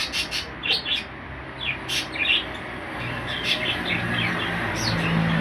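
Small birds chirping: a quick run of high, short chirps at first, then scattered chirps and brief tweets.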